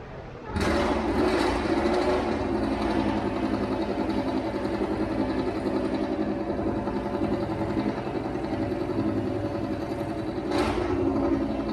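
A vehicle engine running steadily at an even pitch, with a brief swell of noise near the end.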